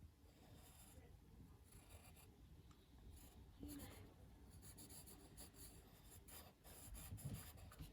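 Faint scratching of drawing strokes on paper, many short quick strokes in an irregular run.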